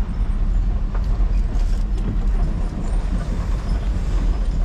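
A vehicle's engine and road noise heard from inside the cab: a steady low rumble with a few light knocks and rattles.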